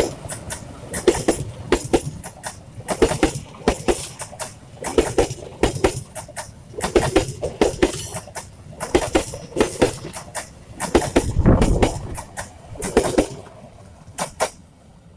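Passenger train coaches rolling past at close range, their wheels clacking over the rail joints in clusters of two or three about once a second over a low rumble. The clacks fade near the end as the last coach passes.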